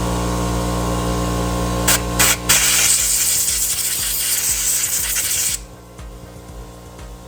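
Air compressor running while compressed air is blown into an opened orbital sander's housing to clear out dust: two short hissing blasts about two seconds in, then a long hiss of about three seconds that cuts off, leaving the compressor running.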